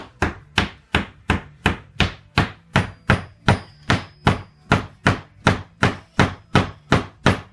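Small hammer tapping the top of a wooden stick in a steady run of blows, about three a second, driving the glued axle into a wooden toy wheel.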